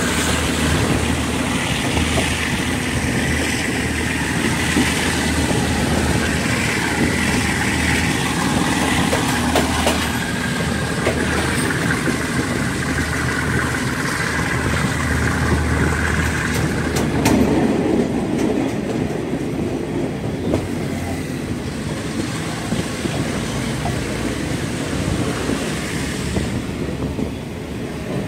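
Passenger train running along the line, heard from beside an open carriage window: a steady rumble of wheels on rail with rushing air and clicks over the rail joints. A low drone and a high whine run through the first part and fade out about two-thirds of the way in.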